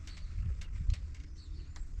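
Outdoor country ambience: faint bird chirps over irregular low thumps, with a few sharp clicks.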